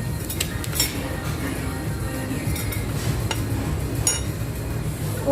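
Cutlery clinking against plates and dishes: a few sharp clinks, one near the end ringing briefly, over a steady low background.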